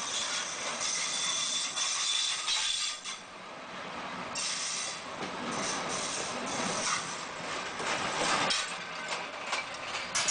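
Railway passenger coaches passing close by: steady clatter and rumble of steel wheels running over the track.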